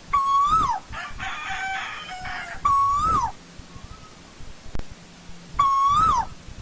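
Asian koel calling: three loud, clear notes about two and a half seconds apart, each held, then rising slightly and dropping away. A busy chattering call fills the gap between the first two.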